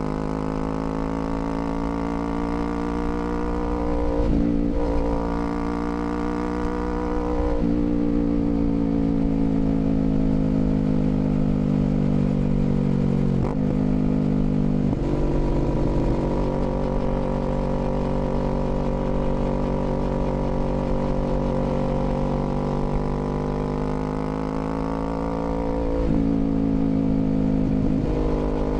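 2021 Kawasaki Z400's 399 cc parallel-twin engine running under way. The engine note breaks briefly a handful of times and slides slowly down in pitch for a few seconds after the second break.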